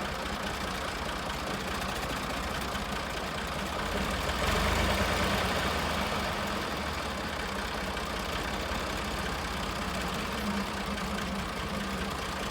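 Tractor's diesel engine running steadily, growing louder for a couple of seconds starting about four and a half seconds in, then settling back.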